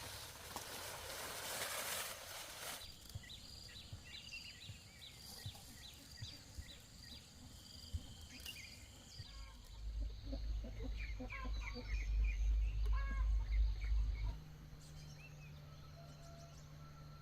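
Small birds chirping over and over, short high calls. There is a hissing rustle for the first few seconds and a loud low rumble from about halfway until near the end.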